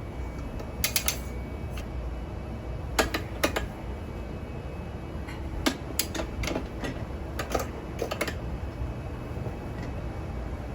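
Tire irons and tools clicking and tapping against a motorcycle wheel rim while levering the tire off. Scattered sharp clicks come singly, in pairs and in one quick triple, over a steady low hum.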